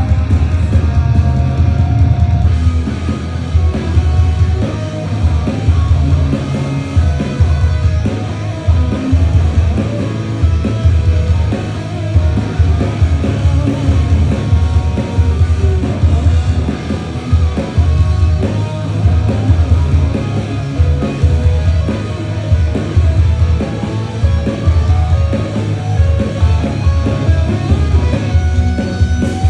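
Loud live rock band performance: electric guitars and bass over drums, with some singing.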